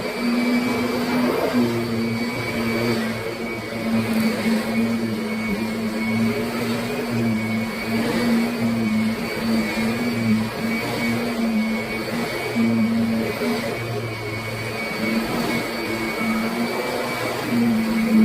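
Kirby Sentria upright vacuum cleaner running steadily, a motor tone with a high whine on top and a low hum that swells and drops every second or two.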